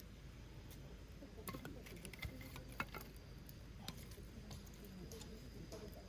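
Faint, irregular small clicks and pops, a few sharper ones around the middle, over a steady low hum.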